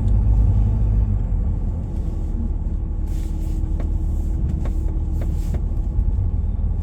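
Steady low rumble of a vehicle being driven, heard from inside the cabin: engine and tyre noise on a snowy road, with a few faint clicks about halfway through.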